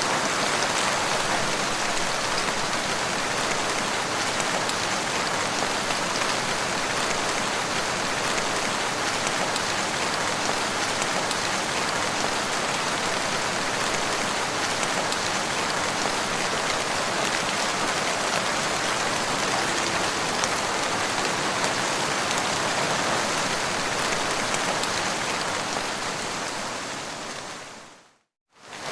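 Steady rain falling, an even hiss of drops hitting the ground, fading out to silence just before the end.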